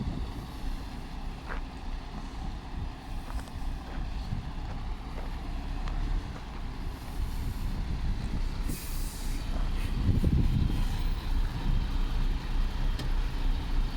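A heavy truck's diesel engine running, with a short hiss of air from the air brakes about nine seconds in. The engine grows louder just after the hiss.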